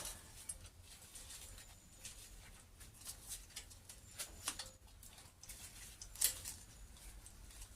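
Faint, scattered metallic clicks and taps of a ring spanner being worked on a tight nut on an engine, over a low steady hum.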